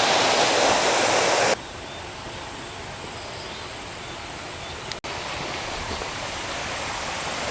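Steady rush of falling water from a waterfall, loud at first and cut off sharply about a second and a half in, followed by a quieter steady rush of water with a brief gap about five seconds in.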